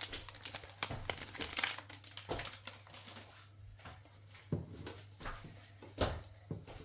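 Crinkling and rustling of a spice packet being handled, dense for the first three seconds, then a few scattered light knocks.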